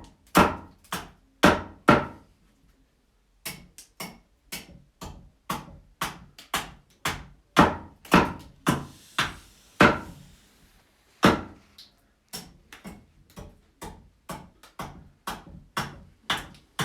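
Axe chopping a fresh wood blank, blow after blow about two a second with a short pause about two seconds in, as the blank is roughed round its perimeter into a cylinder for pole-lathe turning.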